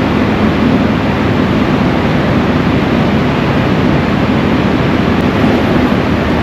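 Steady, loud rumble of a vehicle on the move, engine and road noise holding even throughout.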